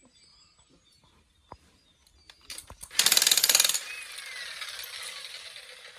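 A few light knocks, then a handheld power tool starts about three seconds in with a loud, very rapid rattle for under a second and keeps running more quietly, its whine falling as it winds down.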